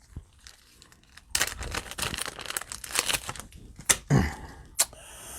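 Thin plastic card sleeves crinkling and rustling as trading cards are handled and slid into them, a dense run of crackles lasting about two and a half seconds, with a soft click near the end.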